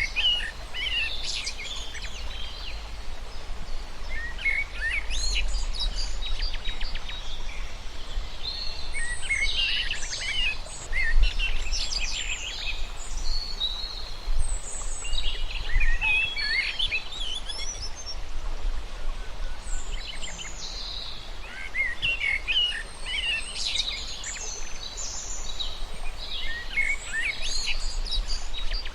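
Birds singing in bursts of quick, high chirps and trills that come every few seconds, over a steady low rumble of outdoor background noise.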